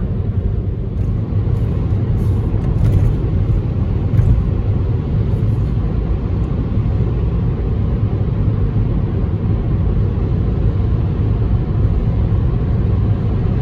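Steady low road rumble inside a Toyota Corolla's cabin while driving: tyre and engine noise.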